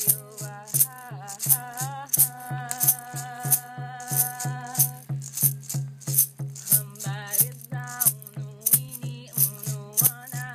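A shaker rattle shaken in a steady rhythm, about three or four shakes a second, under a voice chanting a Yawanawá song. The voice holds a long note for a few seconds about two seconds in. A low even beat runs beneath both.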